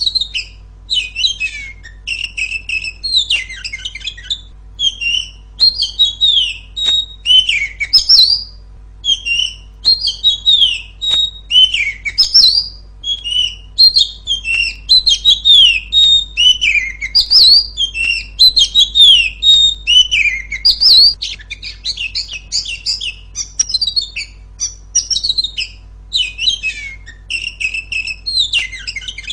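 Female Oriental magpie-robin singing loudly: a continuous run of quick, varied whistled notes, sweeping slurs and scratchy chatter, in short phrases with brief pauses between them.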